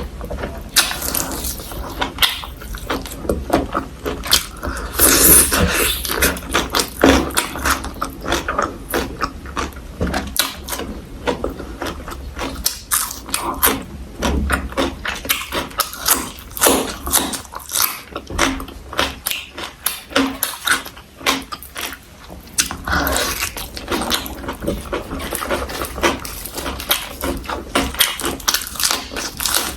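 Close-miked chewing and crunching of food, many irregular crisp crunches and wet mouth sounds throughout. The meal is braised pork, kimchi, pickled garlic, vegetables and rice.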